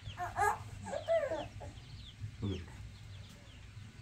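A few short bird calls: two close together in the first second and a half and a fainter one about two and a half seconds in, with small birds chirping faintly behind.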